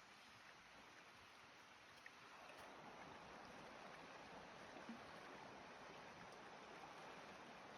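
Near silence: a faint, even hiss of outdoor background noise, a little louder from about two seconds in.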